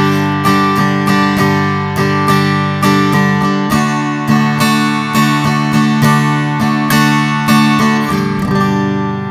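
Acoustic guitar strummed in a steady, repeating campfire strumming pattern, about two strokes a second, with the chords changing several times.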